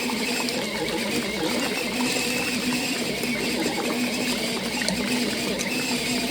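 Small electric motor of a foldable mini washing machine running through a wash cycle, a steady hum with a faint regular pulsing.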